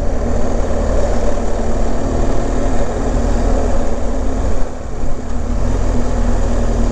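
BMW R1200GS motorcycle's flat-twin engine running steadily under way, with a steady rush of wind and road noise over it. The level dips briefly about two-thirds of the way through.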